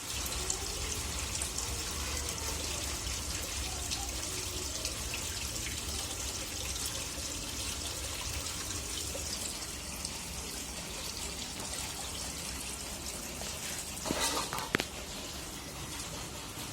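Rainwater from a house pouring and dripping steadily into a borewell recharge pit as rain falls. A brief louder knock or splash comes about fourteen seconds in.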